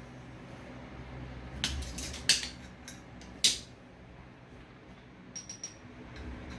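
Metal hand tools clinking and knocking: a handful of sharp metallic clinks between about one and a half and three and a half seconds in, then a few light ticks near the end.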